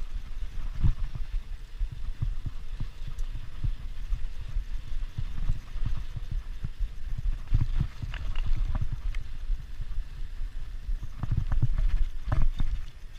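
Wind buffeting the microphone in irregular low thumps while riding a bike, with scattered clicks and rattles from the bike and camera mount, more of them about eight seconds in and again near the end.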